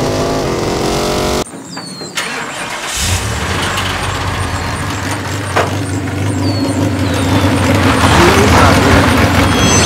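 Car engine running with a rising pitch, cut off about a second and a half in. About three seconds in, another car engine starts and idles steadily through the rest.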